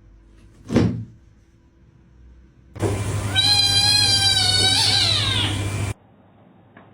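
A cat's long, drawn-out meow that holds one pitch for about two seconds, falls at the end and is cut off abruptly. It is preceded by a brief, sharp sound just under a second in.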